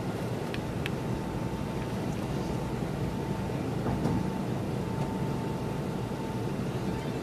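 Keisei 3000 series electric commuter train heard from inside the car: a steady low rumble of running with a faint steady whine above it, and a couple of light clicks about a second in.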